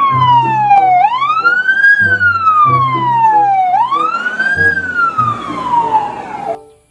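Fire engine siren wailing: a single tone that rises quickly and falls slowly, twice, then cuts off suddenly near the end, with background music underneath.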